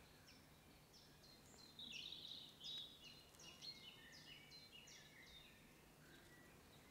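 Faint songbird song: a quick run of short, high chirping notes jumping up and down in pitch, loudest a couple of seconds in and fading out before the end.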